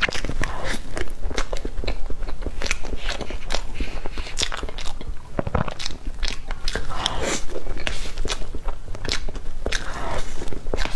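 Close-miked chewing and wet mouth sounds of a person eating soft cream cake with fruit filling: irregular smacks and clicks, with a forkful taken at the start and another near the end.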